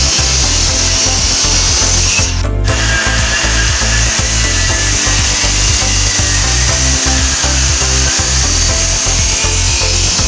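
A power tool running steadily on steel, with a brief break in its hiss about two and a half seconds in, over background music.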